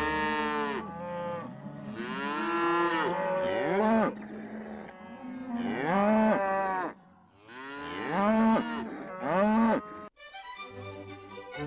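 Holstein-Friesian cattle mooing: about five long moos one after another, each rising and then falling in pitch. Near the end the moos stop and violin music begins.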